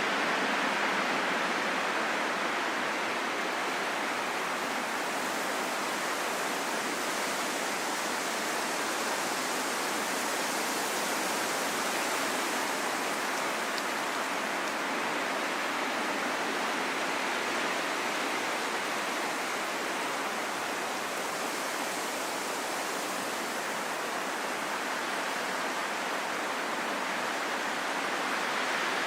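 Steady rain falling in a forest, an even hiss of drops without distinct taps or thunder.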